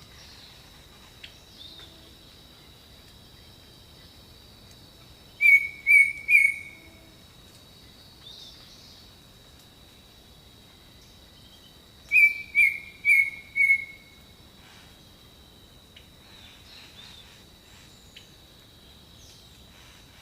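Jungle birdsong ambience: a bird gives loud series of short whistled notes, three together about five and a half seconds in and four together about twelve seconds in, over faint scattered bird calls and a steady high-pitched tone.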